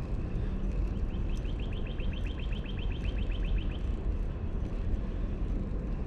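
A songbird's rapid trill of short falling notes, about ten a second, starting about a second in and lasting nearly three seconds. It sits over a steady low outdoor rumble on the camera microphone.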